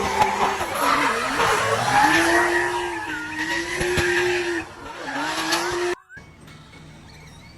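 Racing motorcycle engine running hard, its pitch dipping and rising with the throttle, over a broad rushing noise. It cuts off abruptly about six seconds in, leaving a much quieter stretch.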